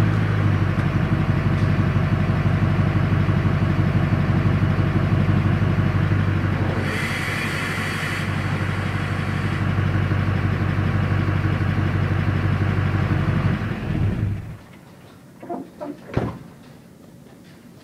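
Duramax LMM 6.6 L V8 turbodiesel idling steadily through a 4-inch aFe turbo-back exhaust with muffler, with a hissing rush for a couple of seconds midway. The engine sound cuts off near the end, followed by a few short knocks.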